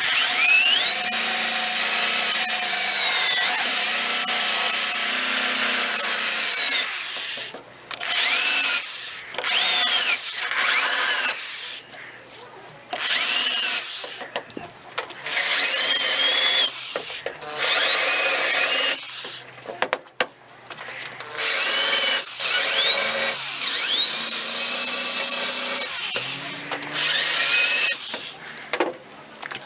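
Power tool spinning a wire wheel against the car's steel body, stripping old body filler and paint. It runs in about ten bursts: a long one of about seven seconds at first, then shorter bursts of one to two seconds. Its high whine dips and rises in pitch as the wheel bites.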